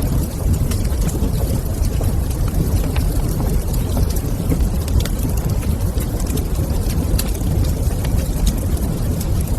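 Wood fire crackling in a fireplace: scattered small snaps and pops over a steady low rumble.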